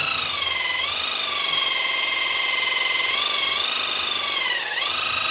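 A small motor whining at a high pitch. It sags in pitch about a second in, then dips sharply and recovers near the end, as if briefly loaded.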